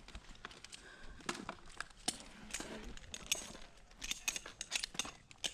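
Irregular sharp clicks and clinks of handled gear, like metal hardware jangling, with light rustling; the clicks come thicker near the end.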